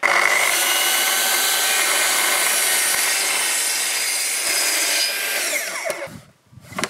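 Festool plunge-cut track saw cutting into an oak beam along its guide rail at 40 mm depth, the motor running steady under load. About five seconds in it is switched off and the blade winds down with a falling whine, followed by a brief knock near the end.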